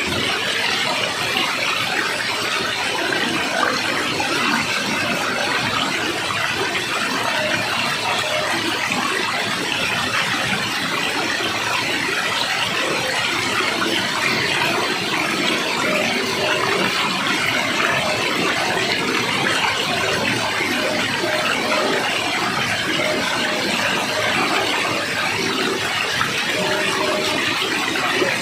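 Steady rush of flowing water, like a stream or small waterfall, with no breaks or changes.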